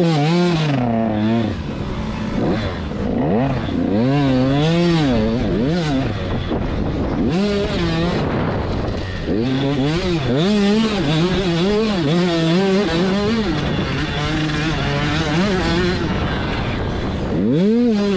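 Dirt bike engine being throttled up and down, its pitch rising and falling every second or two as the revs climb and drop.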